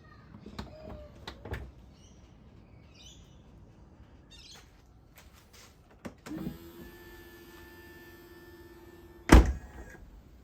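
A small electric motor whirs steadily for about three seconds, then stops with one loud thunk. Faint clicks and chirps come before it.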